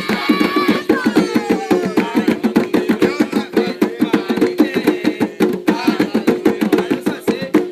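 Umbanda ponto music: hand drums beating a fast, steady rhythm, with voices singing a line near the start.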